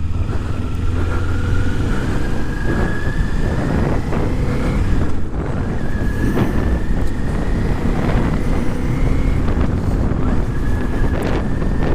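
Motorcycle engine running under way with wind noise. A thin engine whine rises slowly in pitch, drops back and rises again three times as the bike pulls away.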